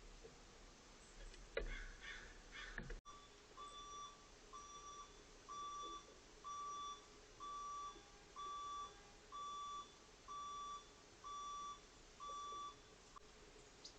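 An electronic beeper sounds a train of about ten short beeps at one steady pitch, roughly one a second, growing louder after the first few. A few faint clicks and rustles come just before the beeping starts.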